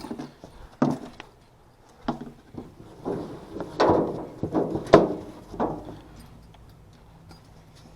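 Scattered knocks, clatters and scrapes of hands and tools working on an HVAC unit, busiest from about three to five seconds in, then quieter.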